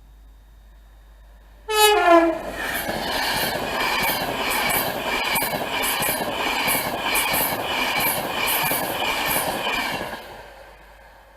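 A train passes close at speed, opening with a brief horn blast that drops in pitch as it goes by, then wheels clacking over the rail joints in an even rhythm about twice a second before the sound fades away near the end.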